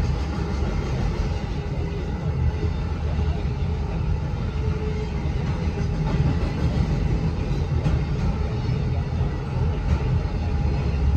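CSX freight train of autorack cars rolling past: a steady low rumble of wheels on the rails.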